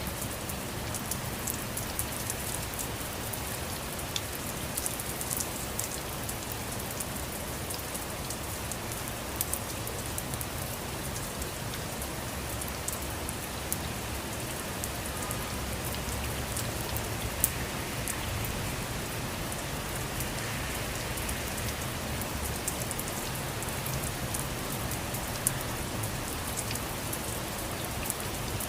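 Steady rain falling, with the sharp ticks of single drops striking a surface scattered through a continuous hiss.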